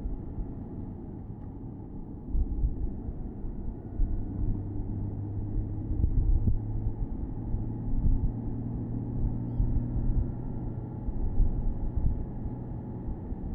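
Porsche Boxster S (987.2) 3.4-litre flat-six running at a steady cruise, heard from the open-top cabin over low road rumble and uneven wind buffeting. The engine note holds steady, strongest through the middle of the stretch.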